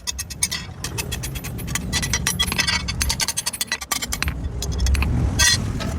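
Metalworking on a steel blade: a rapid run of sharp metallic clinks and strikes, several a second and uneven, over a steady low rumble.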